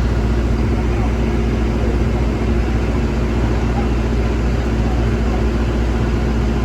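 A heavy vehicle's engine, most likely a truck's diesel, running at a steady, constant pitch on the steep climb.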